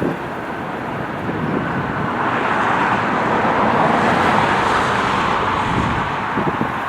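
Jet airliner engines, a steady rush that swells to a peak about halfway through and then eases off as the aircraft passes.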